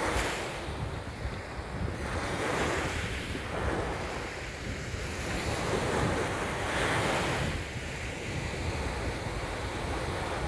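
Ocean surf, waves breaking and washing in, swelling every two seconds or so, with wind buffeting the microphone as a constant low rumble.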